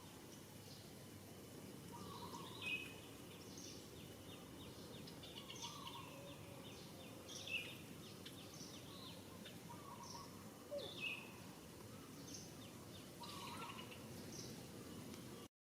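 Birds chirping and calling again and again every second or two over a steady background hiss, until the sound cuts off suddenly near the end.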